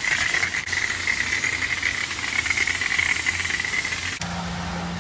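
Self-serve car wash high-pressure spray wand hissing as it sprays a truck, cutting off abruptly about four seconds in. A steady low hum follows.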